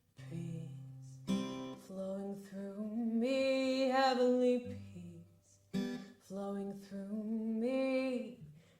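Slow worship song: an acoustic guitar strummed, with a woman singing long, held notes over it.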